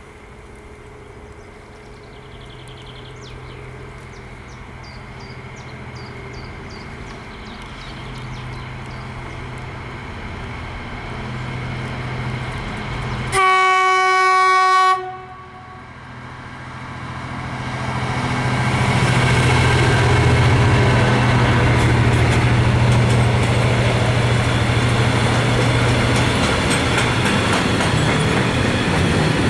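Class 66 diesel locomotive, with its two-stroke EMD V12 engine, approaching with a steady engine drone that grows louder. About halfway through it sounds one loud horn blast of about a second and a half. It then passes close, hauling a mixed freight train whose wagons rumble and clatter over the track.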